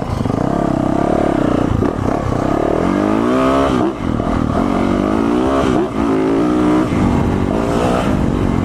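Yamaha four-stroke dirt bike engine revving as it is ridden, its pitch climbing and falling with the throttle, with brief drops about four and six seconds in when the throttle is rolled off.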